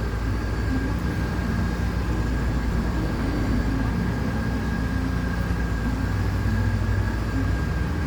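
Workshop machine running steadily, with a low hum and a thin constant high whine.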